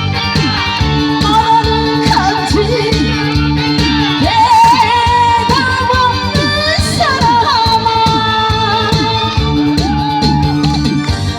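Singing over loud amplified backing music with a steady beat, as in a Korean pumba show.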